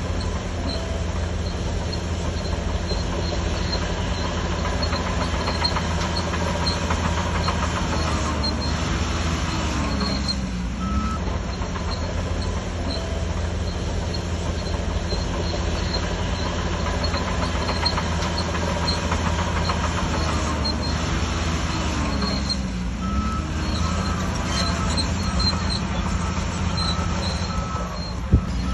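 Shantui DH17C3 crawler bulldozer working: its diesel engine runs steadily under load with the metallic running noise of its tracks, the engine note dipping and recovering twice. A sharp knock comes near the end.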